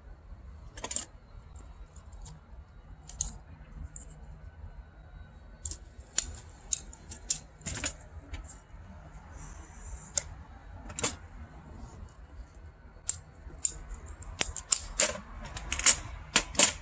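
Irregular sharp clicks and light clatter, coming thicker near the end, from measuring and cutting a length of 1/2-inch pipe by hand.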